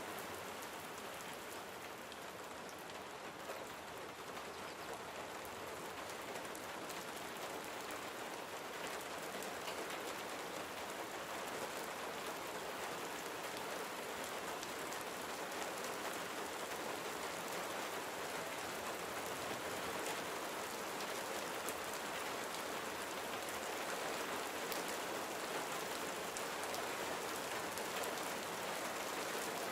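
Gentle rain falling steadily, a dense patter of drops, slowly growing a little louder.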